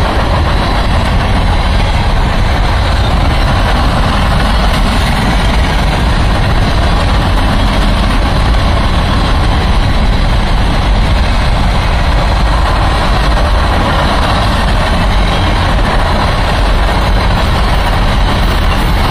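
Freight train cars (covered hoppers and tank cars) rolling past: a loud, steady rumble of steel wheels on the rails.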